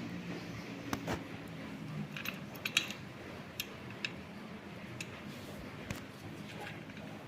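Sogo SG-5603 industrial ceiling fan running: a steady rush of air with a low motor hum that fades about two seconds in, and scattered light clicks and ticks.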